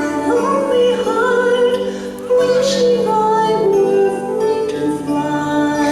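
A song: a singer holding long, gliding notes over a sustained instrumental accompaniment.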